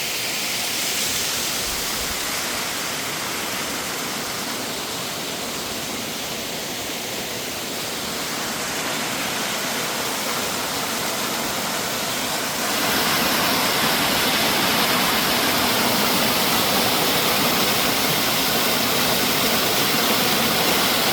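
Mountain stream and waterfall rushing hard in a steady wash of water noise, the stream swollen by heavy overnight rain. It gets louder a little past halfway through.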